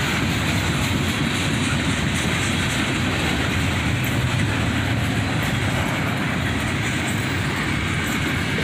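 Cars of a manifest freight train (boxcars, tank cars, bulkhead flatcars) rolling past at close range, a steady rumble with the continuous clatter of steel wheels on the rails.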